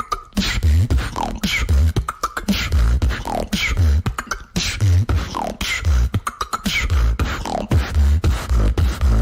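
A female beatboxer performing a solo vocal beat: deep kick-drum bass thumps about once a second, falling pitched sweeps and sharp snare-like clicks in a steady repeating pattern.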